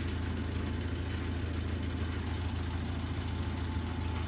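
Engine idling steadily, an even low hum.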